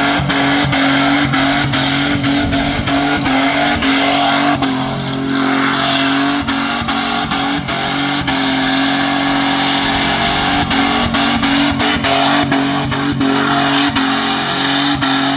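V8 muscle car doing a burnout: the engine is held at steady high revs while the rear tyres spin and squeal, with frequent sharp crackles through the engine note.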